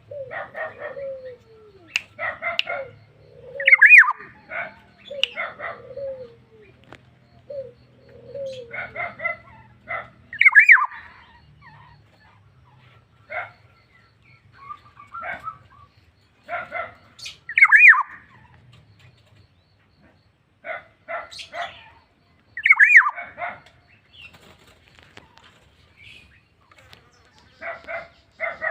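Black-naped oriole singing in bursts: each phrase is a quick cluster of notes topped by a loud clear whistle, repeated every five to seven seconds. Lower falling notes from another bird come in between the phrases during the first third.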